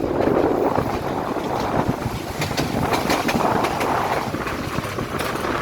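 Passenger train running on the rails: a steady rumble and rattle with wind buffeting the microphone, and a few sharp clicks of the wheels, mostly between two and three and a half seconds in.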